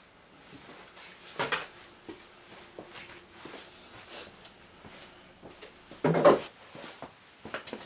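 Tools and parts being handled during an ATV engine strip-down: scattered light clicks and knocks, with two louder clunks about a second and a half in and about six seconds in.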